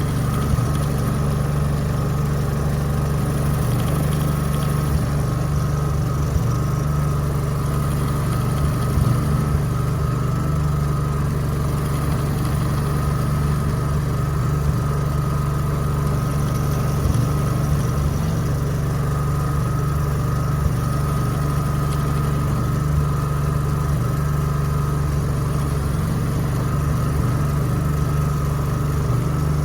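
A generator's engine running steadily, together with a BCA Mk3 milling jig borer cutting with a flat-bottomed carbide burr, which adds a steady higher tone over the low hum.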